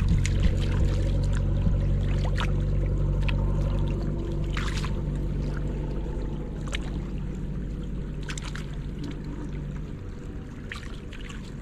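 A steady low mechanical hum that fades after about ten seconds, with water splashing and trickling and scattered sharp clicks over it.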